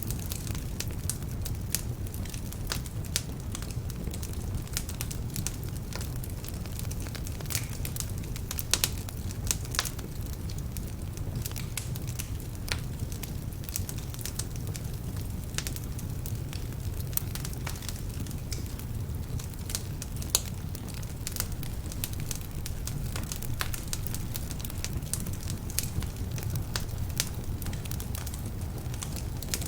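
Wood fire burning in a fireplace: a steady low rumble of flames with frequent irregular crackles and pops, the crackling from logs that are a bit damp.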